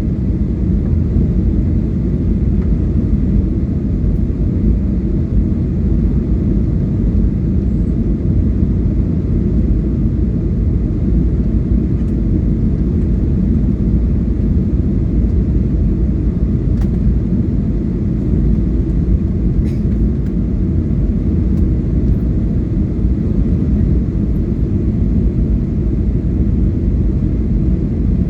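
Steady low rumble of an airliner's engines and airflow heard inside the passenger cabin, with a few faint clicks.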